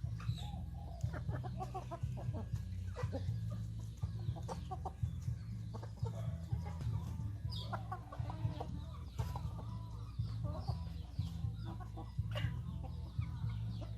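Chickens clucking, with many short clicks scattered through, over a steady low hum.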